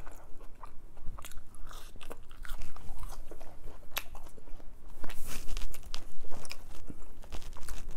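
Close-miked chewing of crinkle-cut french fries: a run of irregular crunches and small crackles.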